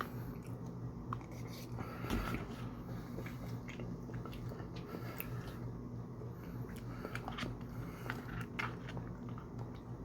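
Close-miked eating sounds: a person biting and chewing food, with frequent short wet mouth clicks and smacks, the loudest bite about two seconds in, over a steady low hum.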